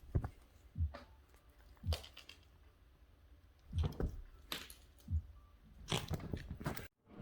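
Utensil working frozen wet cat food in a dish: irregular crunchy knocks and scrapes, roughly one a second.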